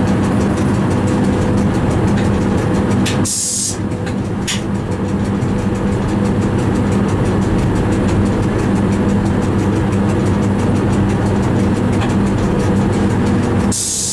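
Train running along the track, heard from inside the driver's cab: a steady rumble with a constant low hum. A short hiss cuts in about three seconds in and again near the end.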